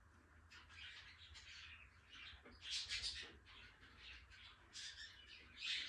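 Birds chirping and squawking: a series of short, high calls, loudest about three seconds in and again near the end.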